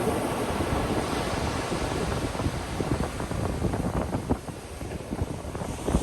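Ocean surf washing onto a beach in a steady rush, with wind buffeting the microphone. The wash eases a little past the middle, then builds again near the end.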